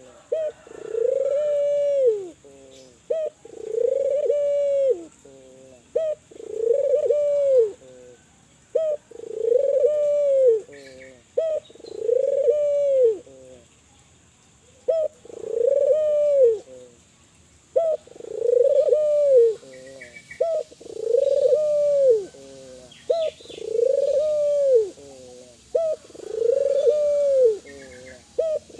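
Spotted dove (Kelantan tekukur) cooing over and over: each call is a short lead-in note followed by a long, arched coo, about one call every two seconds, with a couple of brief pauses.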